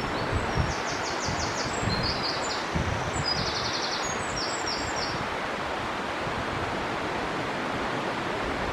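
A river rushes steadily. Over it, a small songbird sings rapid trilled phrases of quick repeated high notes through the first half, and a few low gusts of wind bump the microphone.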